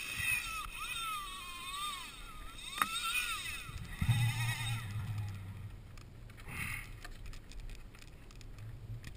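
Fishing reel drag whining as a hooked false albacore pulls line, its pitch rising and falling with the fish's run for the first three seconds or so, then fading. A brief low hum follows about four seconds in.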